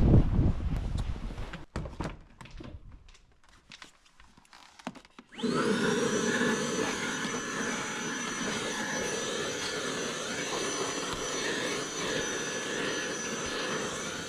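A small electric motor or fan spins up about five seconds in and runs steadily with a high whine over a rushing noise. Before it come a fading low rumble and a few scattered clicks and knocks.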